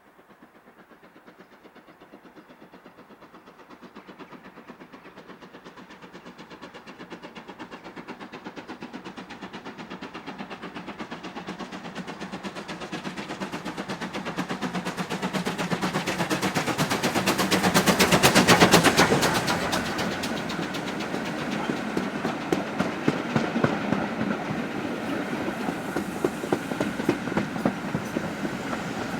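A heritage railway train approaching and passing, its locomotive's exhaust beating rapidly. The sound grows steadily louder to a peak about two-thirds of the way through, then carries on with the wheels clicking over rail joints.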